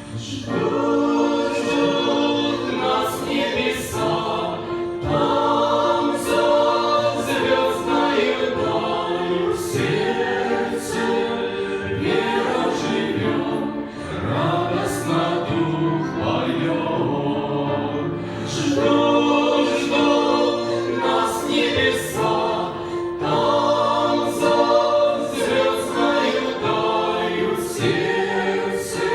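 A choir singing a sacred song, several voices together.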